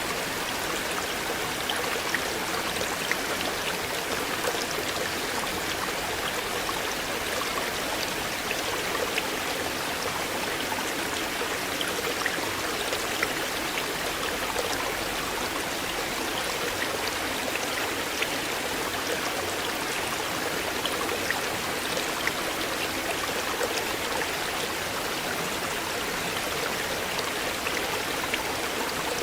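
River water flowing over a shallow bed in a steady, even rush, with many small splashes and droplet ticks scattered through it.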